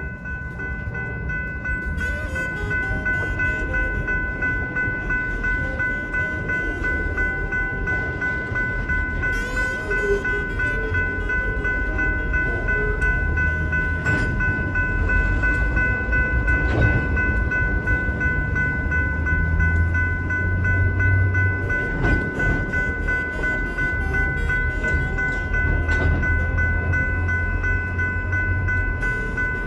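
Diesel switching locomotives (EMD GP-series 'Geeps') working a switching move, the engines running with a low rumble that swells as they throttle up, with a few sharp clanks of couplers or rail equipment and a steady high whine throughout.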